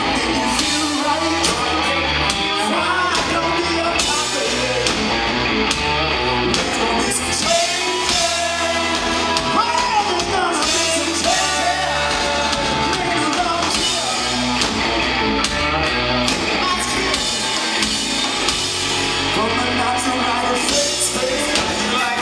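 Live rock band playing, with a singer, electric guitars and a drum kit, loud and dense throughout.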